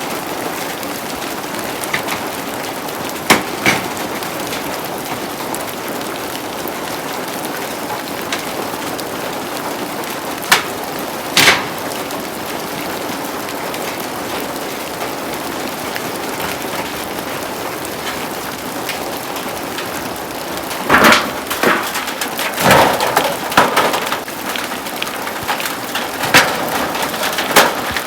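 Heavy rain falling steadily. Sharp knocks come a few times in the first half, and a quicker run of knocks and clatter, with wood sounds among them, begins about 21 seconds in.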